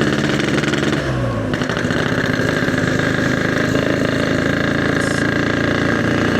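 Yamaha RX-King two-stroke motorcycle engine running; its pitch drops about a second in, then it runs on steadily.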